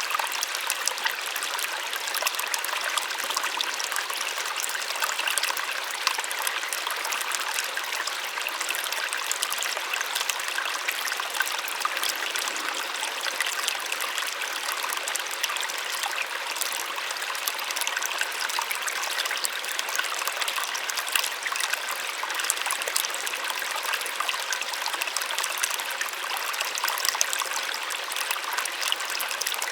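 Small waterfall splashing and trickling steadily, a continuous hiss of falling and running water with no pauses.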